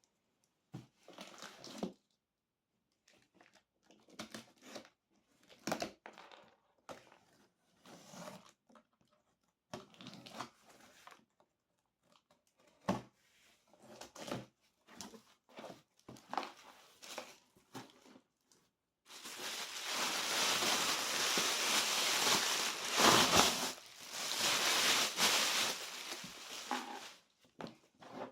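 Packaging of a gift box being handled and opened: scattered short rustles and taps at first. About two-thirds of the way in comes a long stretch of continuous, louder crinkling and tearing.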